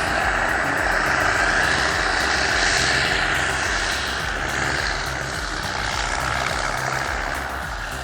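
Heavy machine's diesel engine running steadily under load, with a rushing hiss over a pulsing low rumble.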